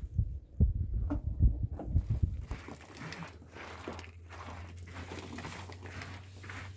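A run of low, dull thumps, then a couple of seconds in, rustling and scraping over a low steady hum.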